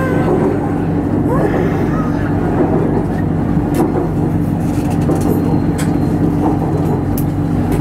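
BTS Skytrain running between stations, heard from inside the carriage: a steady hum of traction motors and wheels on the rails, with a few sharp clicks.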